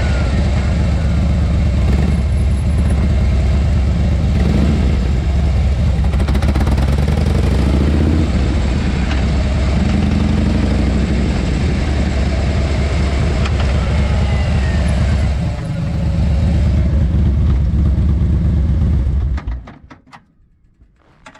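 Harley-Davidson Fat Boy's 103 cubic inch (1690 cc) V-twin running through a Supertrapp muffler, a loud, steady low rumble. It dips briefly about 16 seconds in, then stops abruptly a couple of seconds before the end.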